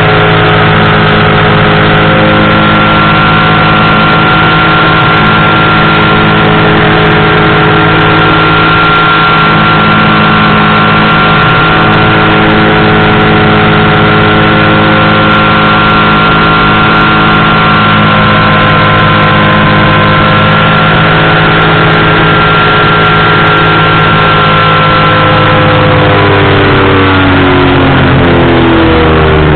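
Powered parachute engine and propeller droning steadily at a constant throttle. About 26 seconds in, the pitch falls as the throttle is eased back.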